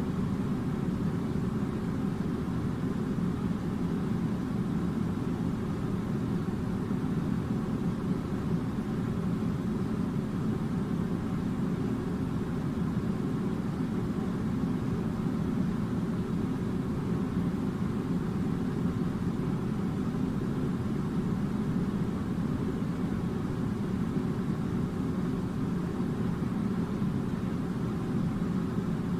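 Steady, unchanging low rumbling noise, like a machine or ventilation running, with no separate events.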